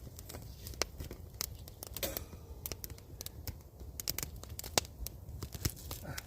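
Campfire crackling: wood popping in sharp, irregular snaps over a low steady rumble.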